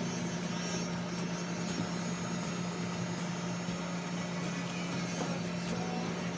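Electric dog grooming clippers running with a steady, even hum as they clip the dog's coat.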